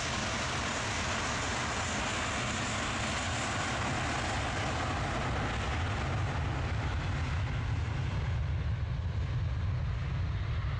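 Aircraft taking off, engines at takeoff power: a steady rushing roar with a low rumble, its higher part fading away from about seven seconds in as the aircraft moves off down the runway.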